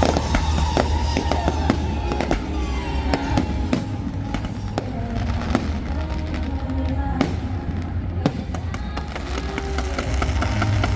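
Fireworks display: many bangs and crackles, some in quick runs, over music.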